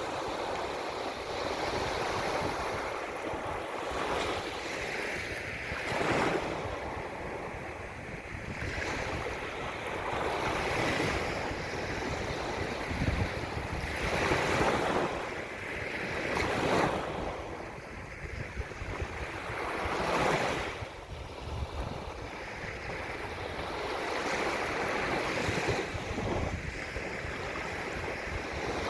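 Ocean surf: waves breaking and washing in, swelling every few seconds, with wind rumbling on the microphone.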